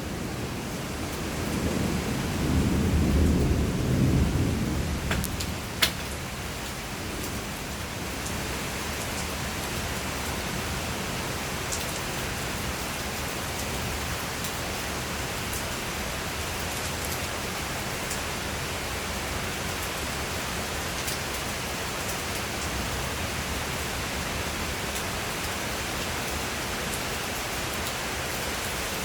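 Steady rain of a thunderstorm, with a low rumble of thunder swelling and fading over the first few seconds. A single sharp crack comes about six seconds in, then the rain goes on as an even hiss with scattered drop ticks.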